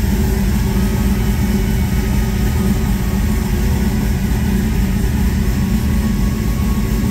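LS-swapped V8 engine idling steadily, heard from the driver's seat of a 1972 Chevrolet Monte Carlo.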